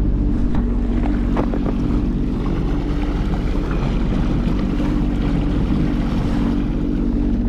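Inboard engine of a jet-drive boat running steadily at low throttle, a constant low hum.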